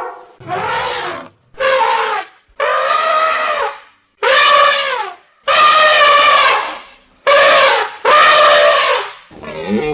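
An animal calling loudly over and over, about seven pitched calls of around a second each with short breaks between them, and a lower call beginning near the end.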